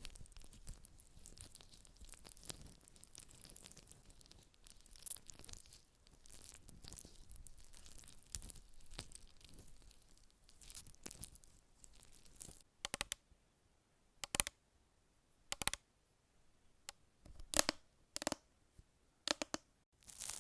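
Close-miked crinkly scratching, then a string of separate sharp taps or clicks about a second apart.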